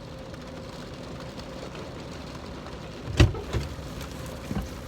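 Steady road and engine noise inside a moving car's cabin, with a sharp click or knock about three seconds in and a couple of fainter ones after it.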